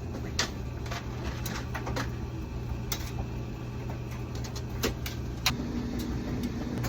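A machine hums steadily with a low drone, and a higher tone joins in about five and a half seconds in. Scattered sharp clicks and knocks sound over it.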